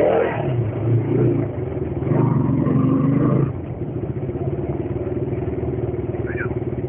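KTM RC 200's single-cylinder engine running as the motorcycle is ridden, picked up by a helmet-mounted mic. It is louder for the first three and a half seconds, then settles into a steadier, quieter drone.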